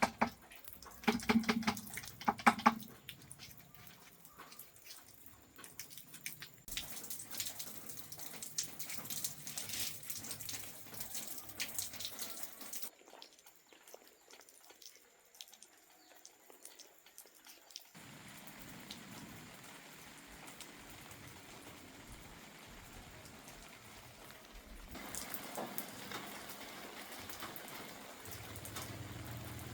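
Water running and dripping, with a series of sharp knocks in the first few seconds; the sound changes abruptly several times.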